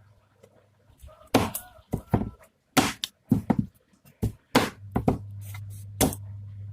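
A run of about a dozen sharp, irregular chopping knocks, as in food being cut on a hard surface, with a low steady hum joining about five seconds in.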